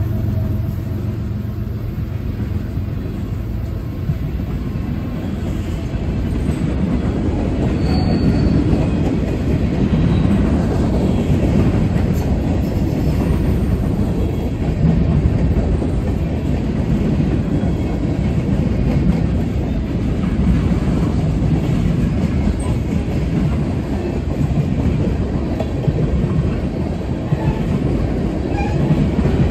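Freight cars of a CSX mixed freight train rolling past at trackside: a steady rumble with the wheels clattering over the rails.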